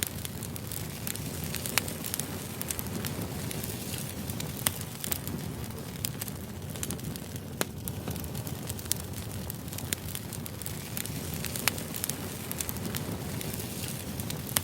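Firewood burning in a fire-pit brazier: a steady low rush of flame with sharp crackles and pops scattered throughout, a few louder pops standing out every few seconds.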